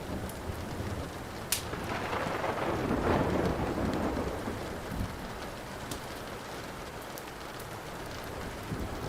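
Steady rain with a thunderclap: a sharp crack about a second and a half in, then a rumble that swells and fades over the next few seconds. A few faint pops, from the wood fire crackling, sit over the rain.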